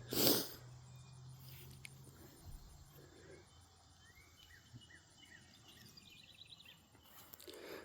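Faint outdoor ambience: insects trilling steadily and high, with a run of short bird chirps and quick repeated notes in the middle. A brief soft noise sounds right at the start.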